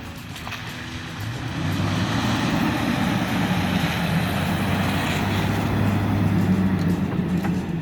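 2021 Toyota Tacoma pickup driving on a dirt trail: a steady engine hum with tyre and road noise that swells about a second in and then holds.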